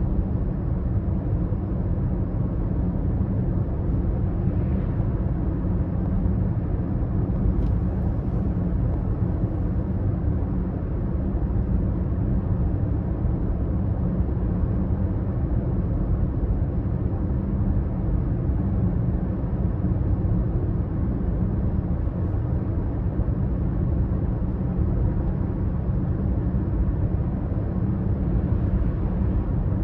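BMW X5 30d's three-litre straight-six diesel engine running steadily while the car drives at an even speed, with road noise.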